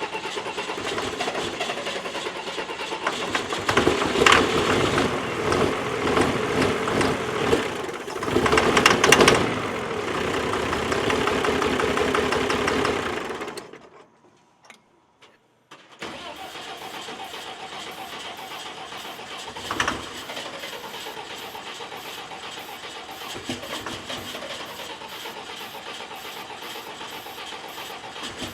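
Cummins 12-valve diesel being cranked over on the starter during a hard start, not settling into a run. The cranking stops for about two seconds midway, then resumes more quietly and evenly.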